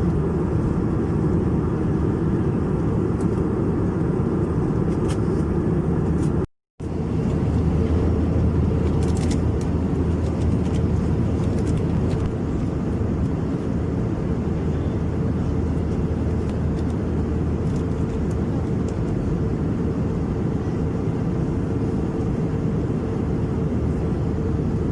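Steady cabin drone of an Airbus A321-200 in flight: engine and airflow noise heard from inside the passenger cabin, deep and even. The sound cuts out completely for a moment about six and a half seconds in.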